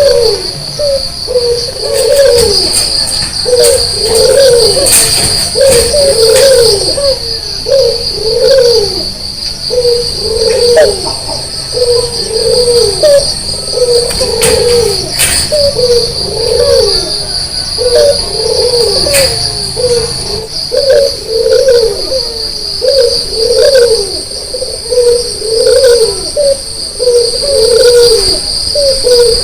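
White Barbary dove (puter) cooing over and over, a low coo about once a second, with a steady high-pitched whine underneath.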